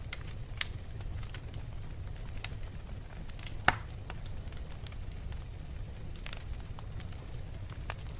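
Wood logs burning in a fireplace: a steady low rumble of the flames with scattered crackles and pops, one sharp loud pop a little before the middle.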